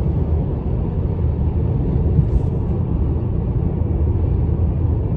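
Dodge Challenger's engine and road noise heard inside the cabin while cruising: a steady low rumble.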